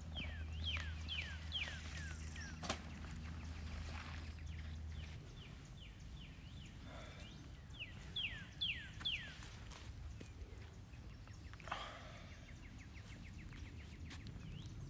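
Quiet woodland ambience with a bird calling in runs of short, downward-slurred chirps: one run at the start, another about eight seconds in, and a quicker run near the end. A faint low hum runs under the first few seconds.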